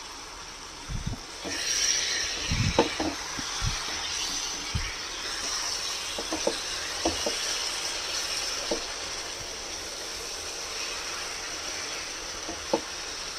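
Yogurt-marinated chicken sizzling in hot masala in a pan, the sizzle rising about a second and a half in. A silicone spatula knocks and scrapes against the pan now and then as the chicken is stirred.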